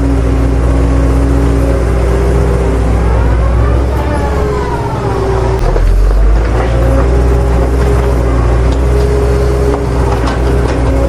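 A vehicle engine running steadily, with a rise and fall in pitch around the middle.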